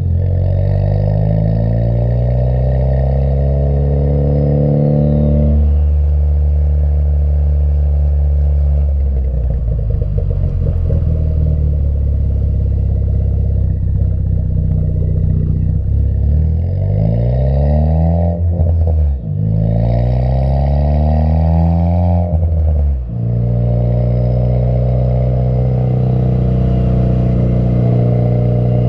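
Ford Fiesta ST engine and MBRP 3-inch exhaust under way: the engine note climbs in pitch at the start, holds, then climbs again in the second half, breaking off sharply twice before settling into a steady drone.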